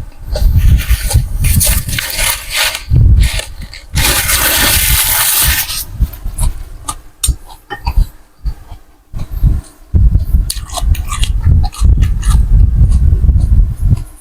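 Close-up eating sounds: slurping noodle soup and chewing, with one long slurp about four seconds in.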